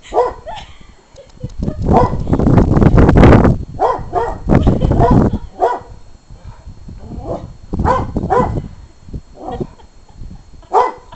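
English bull terrier–German shepherd mix dog barking repeatedly in short, irregular bursts at birds up in a tree, loudest a couple of seconds in.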